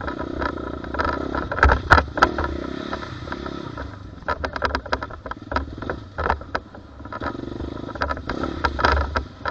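Small dirt bike engine running, with many irregular sharp clattering knocks over it.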